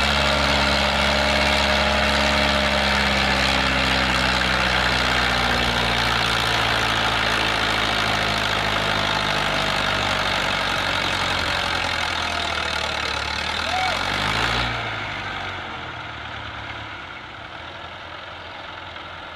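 Tractor diesel engine running loud and steady, its pitch sagging slowly, then briefly rising and falling about fourteen seconds in before the sound drops away to a quieter level.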